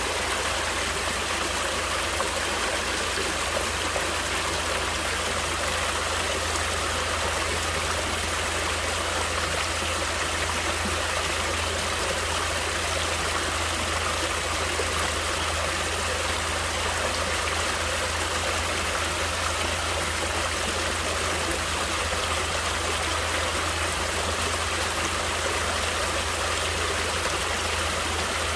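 Water flowing in a stream, a steady, unchanging wash of sound.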